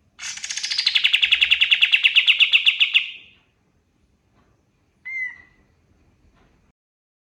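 Golden-bellied gerygone (kapas tembak) singing one rapid trill of about thirteen notes a second. It starts high, drops in pitch, then runs level for nearly three seconds. About two seconds later it gives one short call note.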